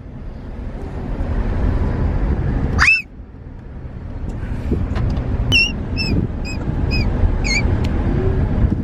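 Small child's high-pitched squeals over the steady road rumble inside a moving car: one rising squeal about three seconds in, then a quick run of about six short squeaks.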